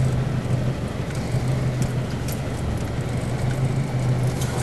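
Four-wheel drive's engine idling in first gear, low range, with a steady low hum while the vehicle crawls over a rocky riverbed crossing. Scattered light clicks and rattles come over the engine.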